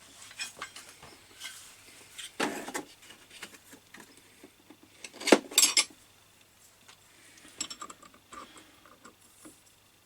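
Steel hand tools clinking and knocking as a spanner is picked out and handled on a metal workbench, with a few louder clanks, the loudest about five seconds in.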